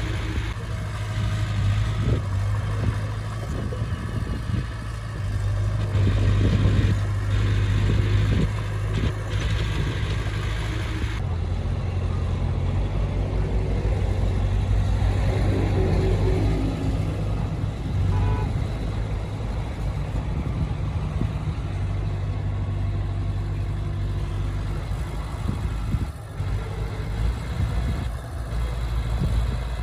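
Heavy diesel earthmoving machinery running steadily with a low engine drone. About eleven seconds in, the higher hiss drops away abruptly while the drone carries on.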